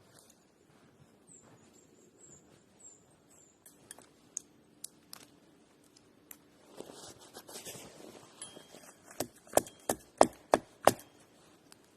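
A run of about six loud, sharp knocks or chopping strikes in quick succession near the end. Scattered lighter clicks and a brief rustle come before them, with faint high chirps early on.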